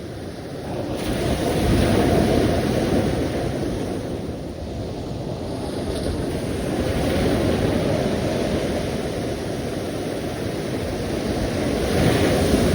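Ocean surf: waves washing in and drawing back in a steady noise that swells and ebbs. Louder surges come about two seconds in, midway through, and again near the end.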